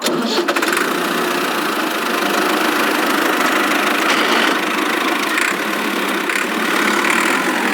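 Small motor of a DIY mini model tractor running steadily with a fast, even rattle.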